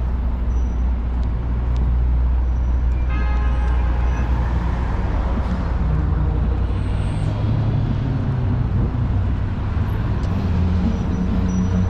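City street traffic: a steady low rumble of vehicle engines passing and idling, with a brief high-pitched tone about three seconds in.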